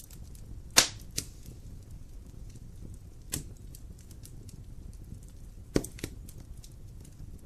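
Wood fire crackling in a fireplace: a steady low rumble of flame with many small ticks and a few sharp pops from the burning logs. The loudest pop comes about a second in, and two more come close together near the six-second mark.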